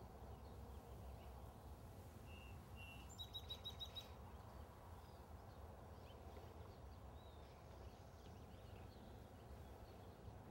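Quiet outdoor ambience with a steady low background rumble. About two to three seconds in, a small bird chirps: two short notes, then a quick run of about five chirps.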